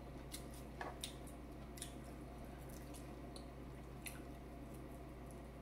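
Faint wet clicks and smacks of someone chewing food, scattered about once a second, over a low steady hum.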